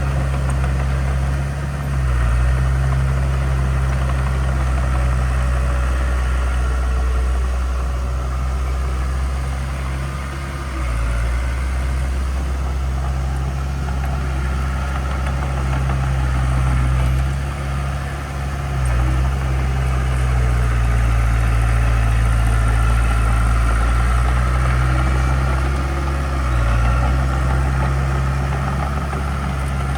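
Heavy diesel engine of earthmoving equipment running with a steady deep note, its pitch and loudness shifting briefly a few times.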